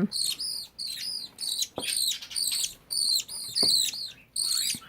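Baby budgerigar chicks chirping in quick runs of short, high calls, with brief pauses between the runs and a few faint ticks.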